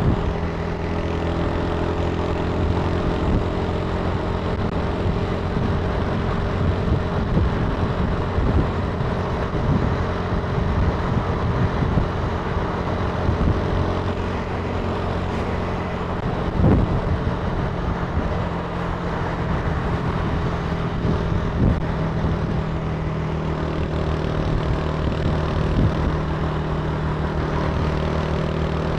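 Italika TC300 motorcycle engine running at a steady speed while riding, its pitch holding even throughout.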